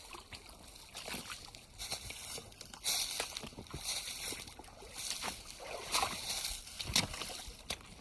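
Footsteps wading through a shallow, rocky creek, the water sloshing and splashing unevenly with each step, with a louder stretch of splashing about three seconds in.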